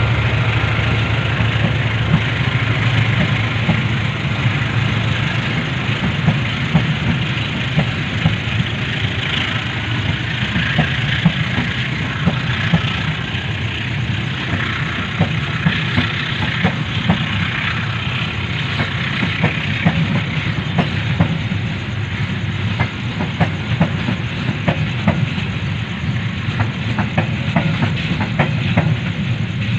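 Passenger train running past on steel rails, a steady rumble with a stream of sharp wheel clicks over the rail joints that grow more frequent in the second half.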